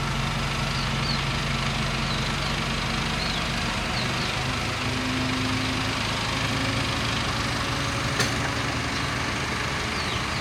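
Bulldozer's diesel engine running steadily, its low note shifting about four seconds in. A few faint, short high squeaks and a single sharp click about eight seconds in.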